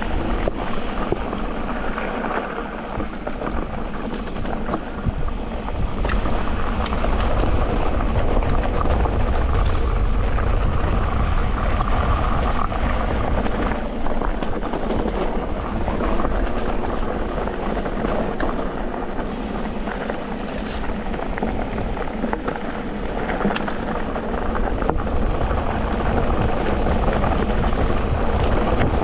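Electric mountain bike rolling over a trail: a steady low rumble of tyres on dirt, with frequent small clicks and rattles from the bike.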